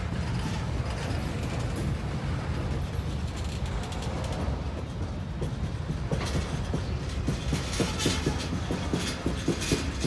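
Freight train of tank cars and gondolas rolling past close by: a steady low rumble of steel wheels on rail. From about six seconds in, sharp irregular clacks come as the wheels cross the track.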